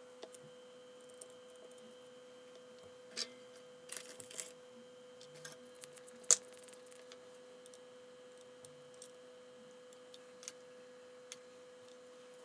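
Faint scattered clicks and taps of small parts and tools being handled while a multimeter is reassembled and soldered, a cluster of them around three to four seconds in and one sharper click about six seconds in, over a steady faint hum.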